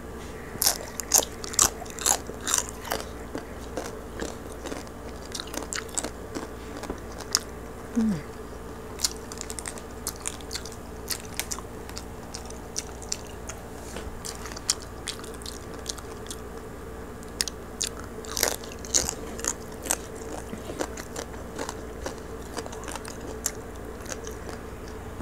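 Close-up crunching of crispy roast pig skin (lechon) as it is pulled apart and chewed, in irregular clusters of sharp crackles, densest about a second or two in and again past the middle. A steady low hum runs underneath.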